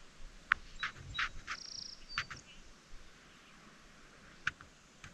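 Small birds calling in a swamp: a scattering of short, sharp chip notes and one brief buzzy trill, mostly in the first half, then a couple more chips near the end.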